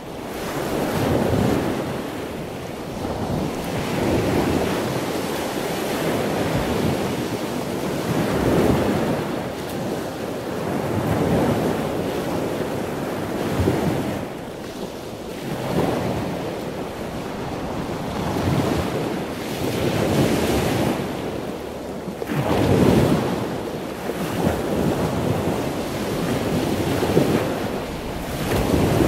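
Sea water rushing and splashing past a sailing yacht's hull under sail, with wind buffeting the microphone; the noise swells and eases every two to three seconds.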